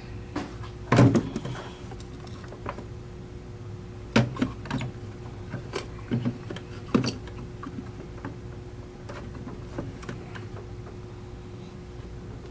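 Scattered clicks and knocks of small tools and parts being handled on a workbench, the loudest about a second in, over a faint steady hum.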